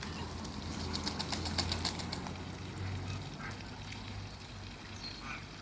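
Ducks calling with a few short, soft calls, over a rapid run of clicks or splashes about a second in and a steady low hum.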